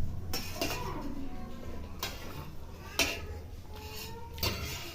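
Spoons clinking against dishes while people eat kheer: a few separate sharp clinks a second or so apart.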